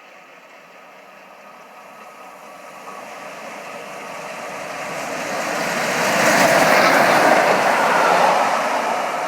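A railway locomotive approaching and passing, its sound building steadily to a loud peak about two-thirds of the way through and then easing off.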